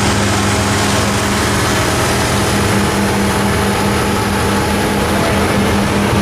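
Antique farm tractor engine running steadily with a low, pulsing beat.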